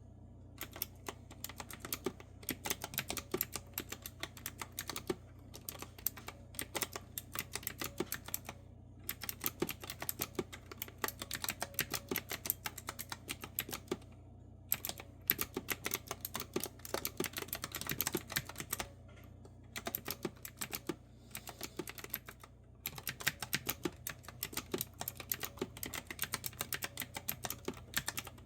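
Fast typing on a clicky retro-style mechanical keyboard with round keys: rapid runs of crisp keystroke clicks, broken by short pauses.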